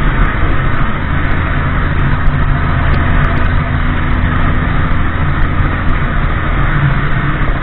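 Motorcycle being ridden at a steady speed: a low, even engine hum under a loud, steady rush of wind and road noise.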